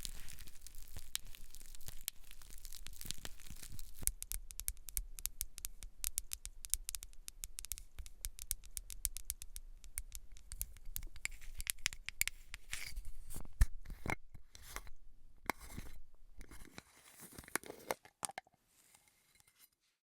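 Close-miked ASMR scratching and crackling of hair being worked over a scalp: a dense run of tiny crackles that thins out and stops a couple of seconds before the end.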